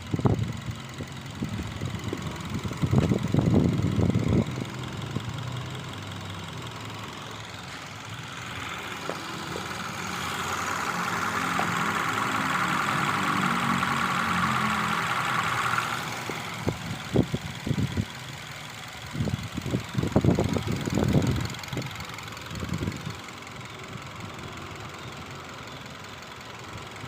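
Mazda 2 engine running at idle after a tune-up. In the middle a louder, higher-pitched sound holds for about six seconds, and irregular low thumps come near the start and again near the end.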